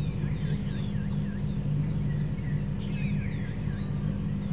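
Birds chirping in runs of short, quickly repeated calls, over a steady low hum.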